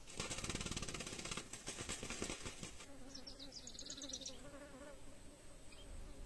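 A rapid buzzing flutter for the first few seconds, then a small bird's quick run of about eight high chirps, and one more faint chirp near the end.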